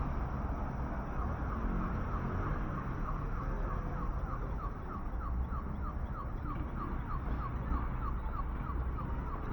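Steady city traffic rumble with a rapid, regular chirping over it, about four short falling chirps a second, starting about a second in.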